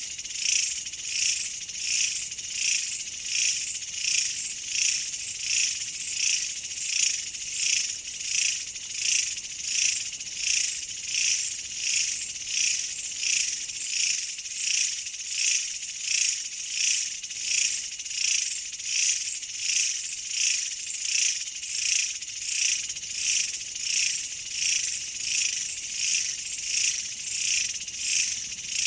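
Insect calling: a high, buzzing trill that pulses evenly, a little more than once a second.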